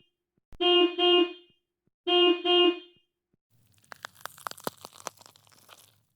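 A horn-like honk sounding twice in quick succession, and the double honk repeated. Then, from about halfway, a crackling, crunching noise full of sharp clicks over a low hum.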